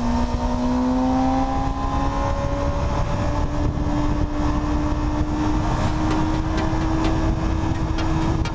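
BMW S1000RR inline-four engine running at cruising speed, its note rising slowly as the bike gently accelerates, over steady wind rush on the microphone. A few light ticks come in near the end.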